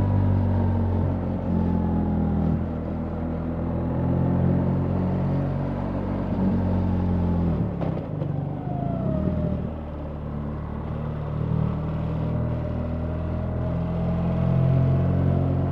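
BMW R 1300 GS boxer-twin engine running under way with road and wind noise. The engine note eases down, dips and breaks briefly about halfway through, then climbs steadily as the bike accelerates toward the end.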